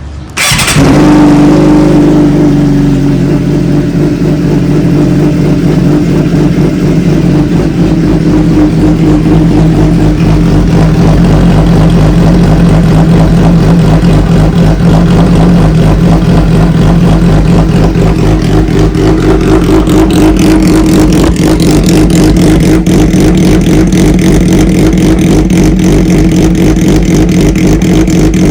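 A 600 cc inline-four supersport motorcycle engine running loudly at a steady engine speed, coming in suddenly about half a second in.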